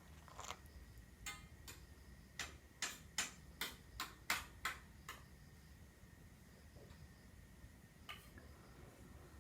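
A run of sharp clicks or taps, about a dozen at two to three a second, stopping about five seconds in, with one more near the end.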